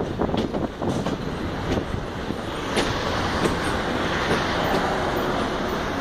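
Albanian Railways passenger train running along the track, heard from aboard: a steady rumble of wheels on rail mixed with a rushing noise and a few sharp clicks. The rushing grows a little louder after about two and a half seconds.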